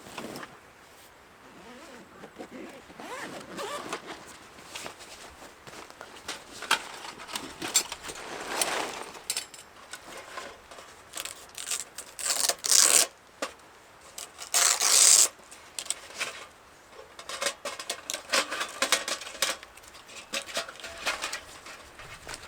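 A zipper pulled open or shut in two long strokes past the middle, among scattered clicks, knocks and rustles of camping gear being handled.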